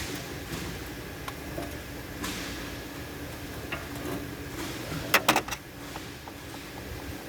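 A quick cluster of four or five sharp knocks about five seconds in, the sound of tools or parts being handled during car repair work, over a steady low workshop hum.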